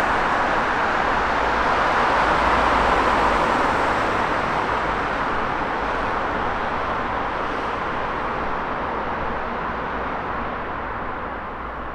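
Jet engines of a passing airliner, a loud rushing noise that is loudest about three seconds in and then slowly fades as the aircraft moves away.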